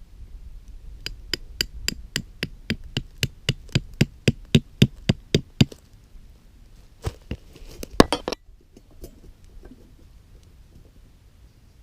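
A quick, even series of sharp knocks or strikes, about four a second, keeping up for four to five seconds. After a short pause come a few more strikes, and the sound then cuts off suddenly.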